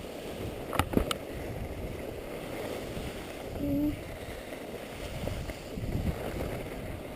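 Skis sliding and scraping over packed snow, a steady rushing hiss with wind on the microphone, and a couple of sharp clacks about a second in.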